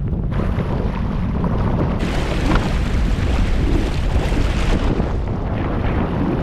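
Sea-Doo personal watercraft under way, with loud wind buffeting the microphone over a steady rush of water and engine noise.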